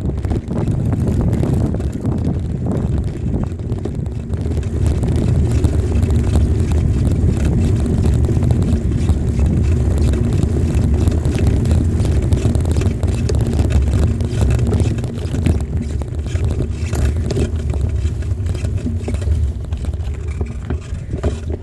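Steady wind rumble buffeting the microphone while riding a bicycle, a loud low roar with no clear pitch.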